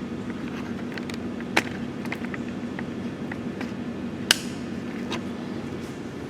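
Scattered small clicks and knocks of hands and tools working at plastic trim and parts under a truck's dashboard, with two sharp snaps about one and a half seconds and four seconds in, over a steady low hum.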